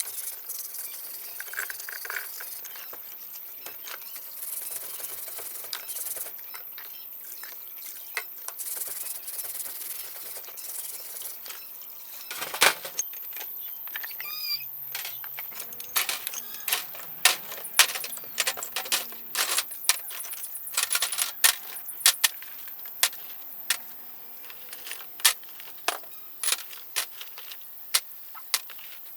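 Sharp metallic clicks and clinks at irregular intervals, sparse at first and coming thick and fast in the second half, like hand tools and small metal parts being handled and set down.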